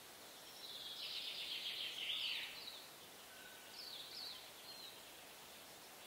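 Songbird singing: a burst of rapid, trilling warble lasting about two seconds, starting just after the half-second mark, then a few short chirps about four seconds in, over a faint steady outdoor hiss.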